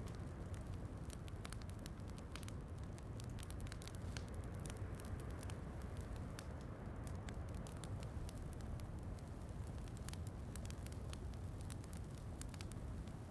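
Fireplace crackling with many small irregular pops over a steady, low wash of rain.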